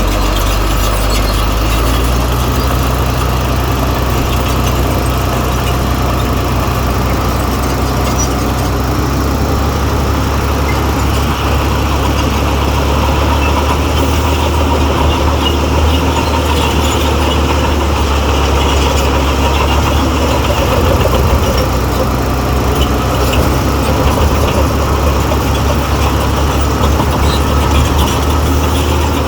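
Heavy diesel engine of earthmoving machinery running steadily under load, its low note stepping up slightly about nine seconds in.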